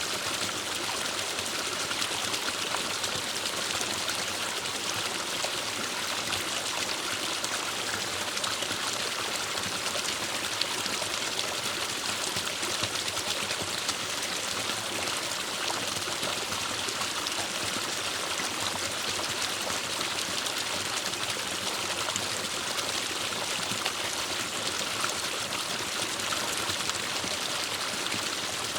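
Forest stream flowing steadily over stones, an even rushing and trickling of water.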